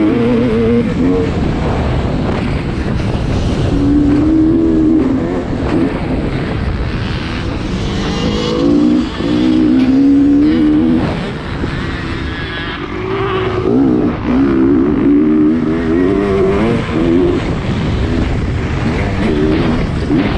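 Motocross dirt bike engine being ridden hard, its pitch climbing and dropping over and over with the throttle and gear changes, with brief dips where the throttle is rolled off.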